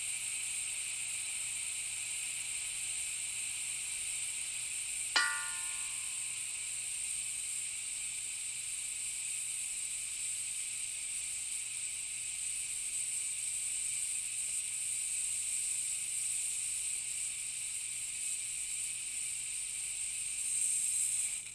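Compressed-air tank leaking slowly, a steady high hiss of escaping air. A single click with a brief ring comes about five seconds in, and the hiss fades out at the very end.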